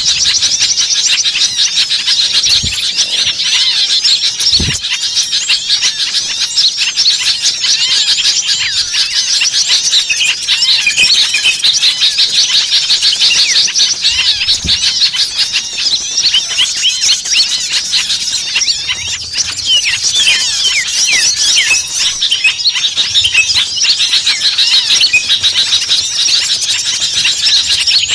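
A dense chorus of many small songbirds calling at once, a continuous crowded chatter of high, quick chirps and trills with no pause. It is a bird-lure recording of rowdy mixed small birds, played to draw small birds in.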